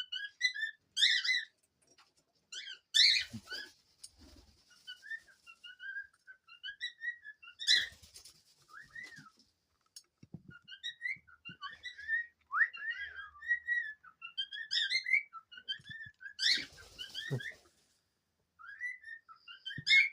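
Pet cockatiels whistling and chattering: a stream of short warbling whistled phrases with rising and falling glides, broken by three loud harsh bursts about 3, 8 and 17 seconds in.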